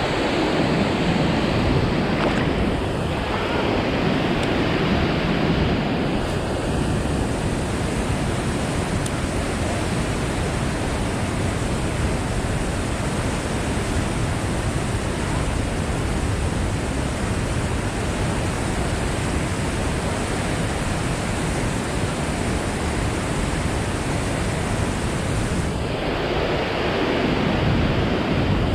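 White water released from a dam's flood gates, rushing steadily over rocks into the river's potholes.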